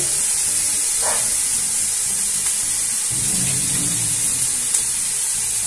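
Chopped vegetables frying in oil in a stainless steel pot, a steady sizzle.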